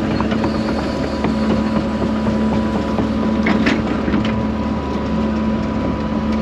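Diesel engine of a Case excavator running steadily with a constant hum, with scattered light clicks and rattles as the machine works.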